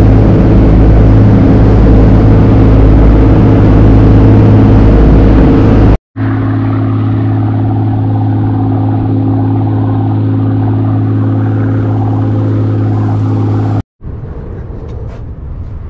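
A boat's engine running steadily at speed, with the rush of wind and water over it, broken by two abrupt cuts. Near the end the engine is gone, leaving a much quieter background with a few faint ticks.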